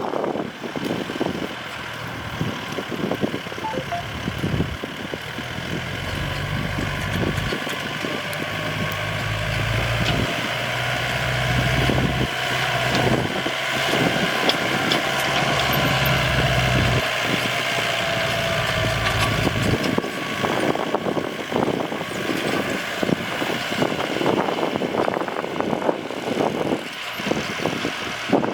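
Yanmar tractor's diesel engine running while plowing, with steady clatter. A deeper engine hum comes in about five seconds in and drops away after about seventeen seconds.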